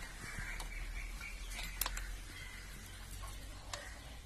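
A few faint, sharp metallic clicks and taps of a spanner and feeler gauge on the valve adjuster of a Pulsar 135 LS engine while the valve clearance is set to 0.10 mm, with faint chirping in the background.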